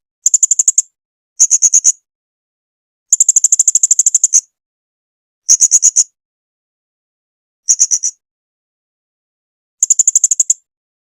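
Blue-crowned hanging parrot (serindit) calling: six short bursts of rapid, high-pitched chattering notes, about a dozen a second, separated by silent gaps.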